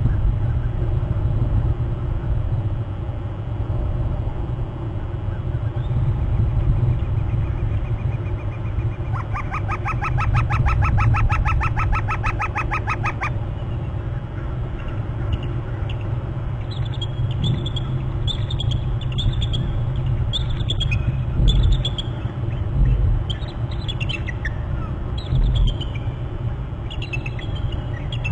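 Bald eagle calling: about nine seconds in, a rapid chattering run of high notes lasting about four seconds, then scattered short high squeals and chips, some sliding downward. A steady low rumble runs underneath.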